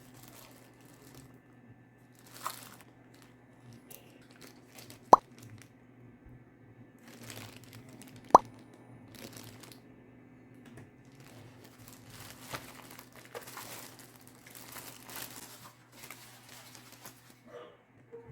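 Packaging being handled: repeated rustling, crinkling and tearing, with two sharp clicks or snaps, about five seconds in and about eight seconds in, as the loudest sounds.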